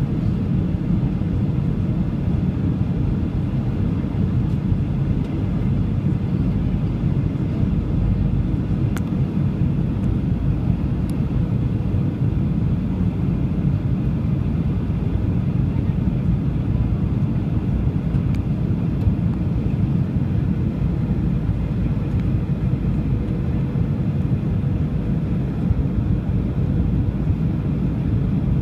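Steady low rumble of a Boeing 737-800 in flight, its CFM56-7B jet engines and airflow heard from inside the cabin, with a faint steady hum above the rumble.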